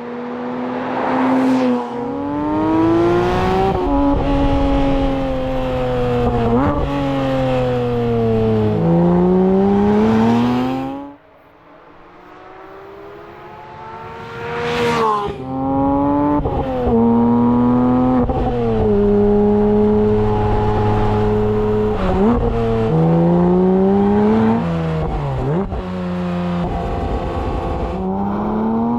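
Porsche 911 GT3 S/C's naturally aspirated 4.0-litre flat-six exhaust, revving up and down in pitch over and over. The sound cuts out suddenly about a third of the way in, returns quieter, then climbs back to full volume.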